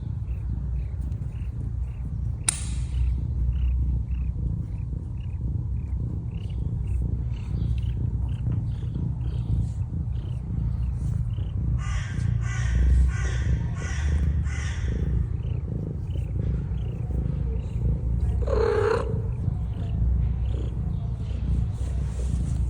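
Domestic cat purring close up, a steady low rumble, with a short higher-pitched call about eighteen seconds in.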